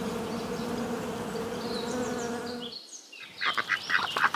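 Honeybees buzzing in flight, a steady low hum. A little under three seconds in it cuts off, and rapid short calls of mallard ducks and ducklings begin.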